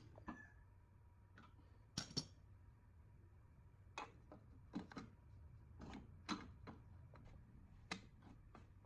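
Scattered light clicks and taps, about a dozen at irregular intervals, over a low steady hum, as from small parts and hand tools being handled in a workshop.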